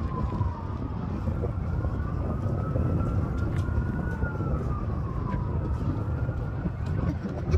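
Siren wailing, its pitch slowly falling, rising and falling again over several seconds, above a steady low rumble of traffic or wind.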